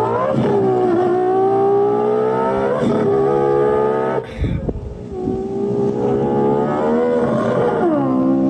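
A boy's voice imitating a Lexus LFA engine revving through the gears with his mouth: held tones that climb slowly in pitch and drop suddenly at each shift, with a short break about four seconds in.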